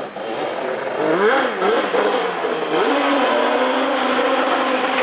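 Off-road vehicle engine revving, its pitch rising and falling a couple of times from about a second in, then holding a steady note at higher revs.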